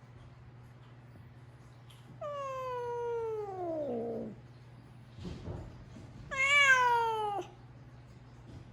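A cat meowing twice: two long, drawn-out meows that slide down in pitch, the second one shorter and louder.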